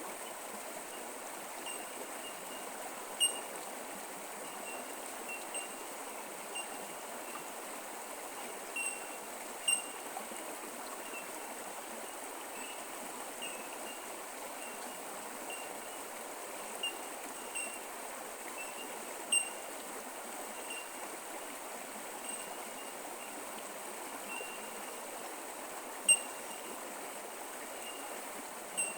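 Creek water flowing and trickling steadily, with short high pips scattered over it, a few of them sharper and louder.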